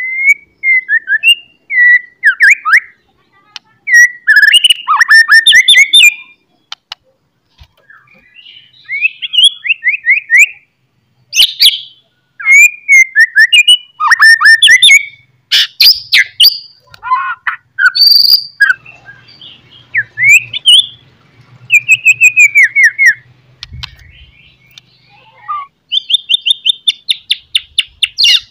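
A songbird singing a loud, varied song of whistled phrases with rising and falling notes and fast trills, broken by short pauses and ending in a quick run of repeated notes.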